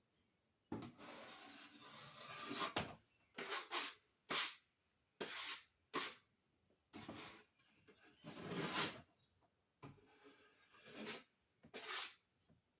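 A drywall knife spreading and scraping joint compound over a wall patch, in a series of short scraping strokes with a longer drawn stroke about a second in.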